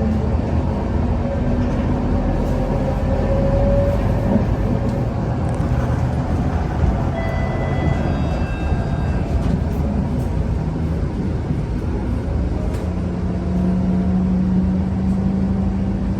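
Scania K230UB single-deck bus on the move, heard from inside the cabin. It is a steady low rumble of engine and road, with a rising whine in the first few seconds and a steady low drone setting in near the end.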